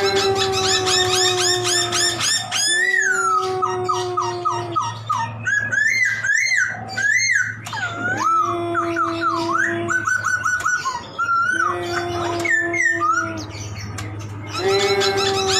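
Poksay (laughingthrush) singing a long, varied song. It gives drawn-out, slightly falling whining notes four times, with fast high trills and rising and falling whistles between and over them.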